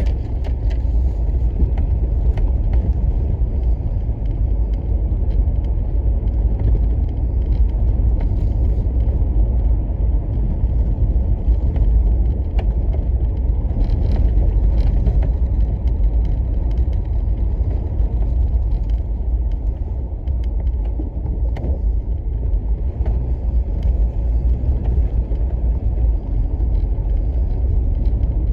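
Steady low rumble of a car driving, road and engine noise heard from inside the cabin, with faint scattered ticks over it.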